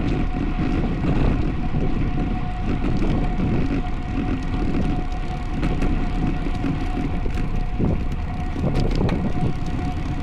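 Wind rushing over a bike-mounted camera's microphone, with tyre and road noise from a road bike riding at speed, and a steady high hum running underneath.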